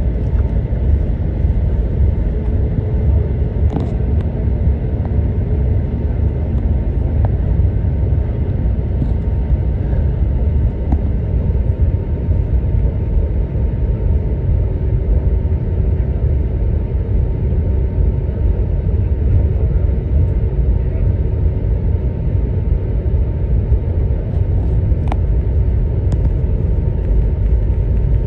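Steady low rumble of an Airbus A321 taxiing before takeoff, with a few faint clicks.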